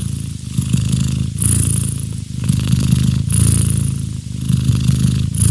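Domestic cat purring loudly, close to the microphone, the purr swelling and fading with each breath about once a second.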